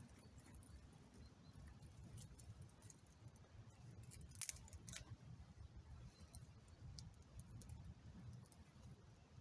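Near silence with a low rumble, broken by a sharp click about four and a half seconds in, a second click half a second later, and a few fainter ticks.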